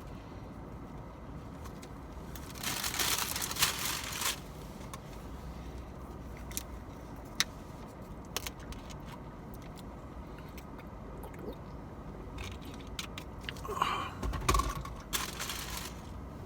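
A person chewing a mouthful of battered corn dog, with louder crunching bursts about three seconds in and again near the end, over a low steady rumble.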